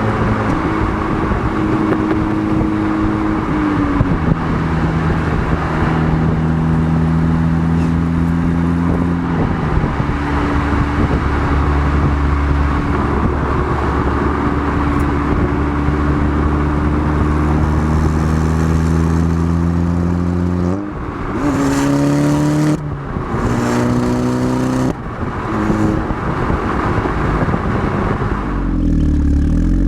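Audi S3 8P's turbocharged 2.0 TFSI four-cylinder running through a BCS Powervalve exhaust as the car is driven: a steady engine drone that holds one pitch for several seconds, then shifts to a new pitch a few times. A little after twenty seconds the revs rise briefly with short drops in loudness, and near the end the pitch falls and rises again.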